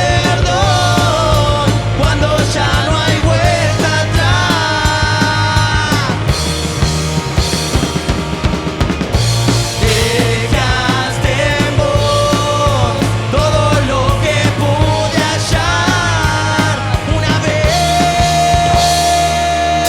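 Rock band playing live: a steady drum and bass groove under a lead melody that bends between notes and holds long ones, closing on one long sustained note near the end.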